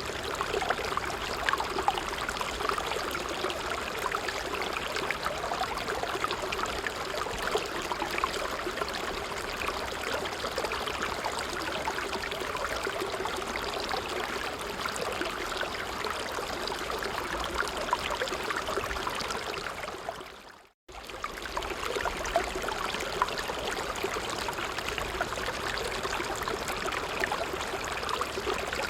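Creek water flowing and babbling steadily. The sound fades to nothing for a moment about two-thirds of the way through, then comes straight back.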